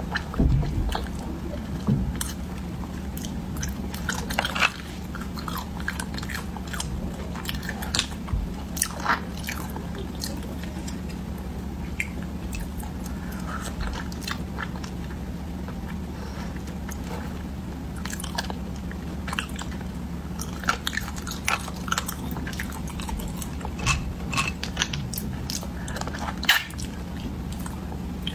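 Close-miked mouth sounds of eating snails in chili sauce: the meat is picked from the shells with a toothpick and chewed, with scattered short crisp clicks over a steady low hum.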